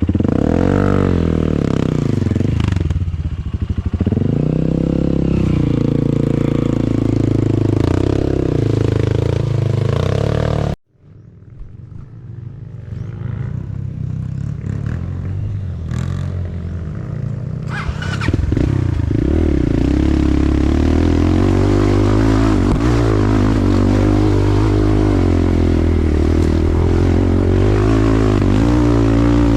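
Dirt bike engine running off-road with the revs rising and falling and some clatter. About eleven seconds in the sound cuts off abruptly. Engine noise then builds back up and runs steadily again.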